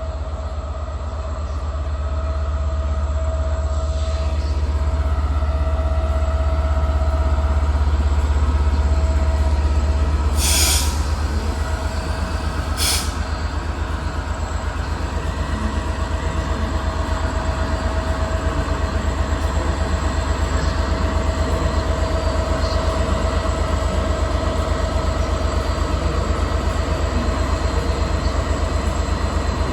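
Class 67 diesel locomotive's EMD V12 two-stroke engine idling while standing at the platform: a steady low rumble with a steady whine. Two short, sharp hisses come about ten and thirteen seconds in.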